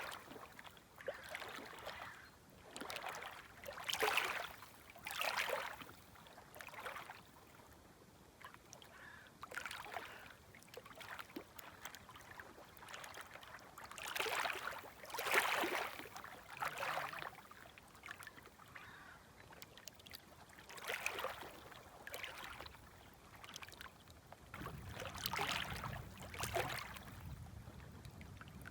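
Small, gentle waves lapping at the shoreline: soft, irregular splashes and washes every second or two, some louder than others. A faint low hum joins near the end.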